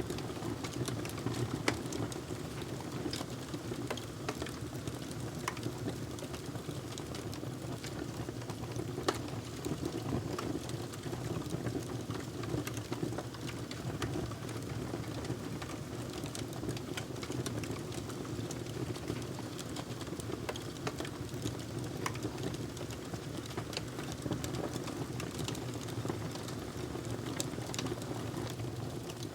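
Fireplace crackling: a steady low rumble of burning with irregular sharp pops and snaps.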